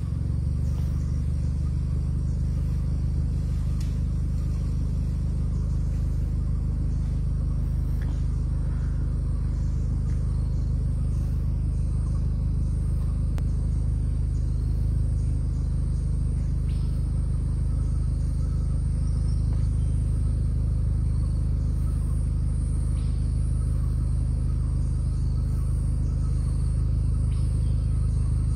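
A vehicle engine idling, a steady low rumble that does not change.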